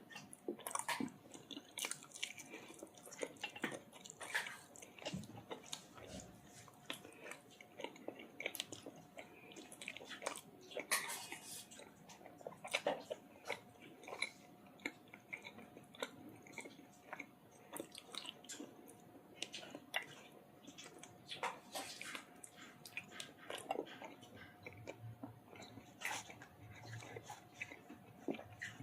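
Close-miked mouth sounds of someone eating spicy chicken curry with roti and rice: irregular wet chewing, biting and lip smacks.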